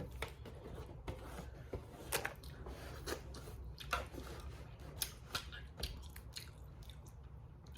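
Close-miked eating of a Cajun crawfish boil: chewing and mouth smacking, with irregular short clicks and cracks from crawfish being peeled and eaten.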